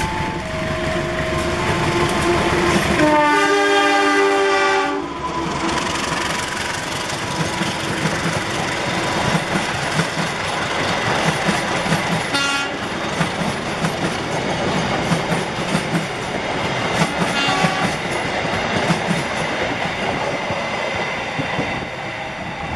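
CC203 diesel-electric locomotive hauling a passenger train past at speed: a horn blast of about two seconds, starting about three seconds in, then the train's running noise and the clickety-clack of the coaches' wheels over the rail joints as they go by.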